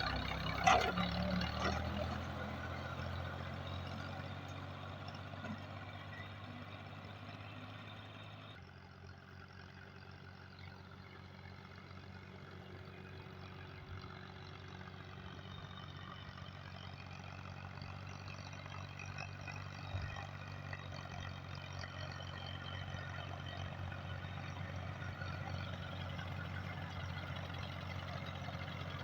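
Massey Ferguson 240 tractor's three-cylinder diesel engine running steadily. There is a sharp knock near the start. The engine sound drops in level about a third of the way through, then slowly builds back up.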